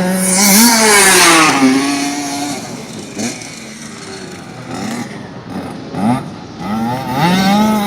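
A dirt bike's engine revs up hard as it comes through a turn on a motocross track, then falls in pitch and fades as the bike moves away; it swells again near the end.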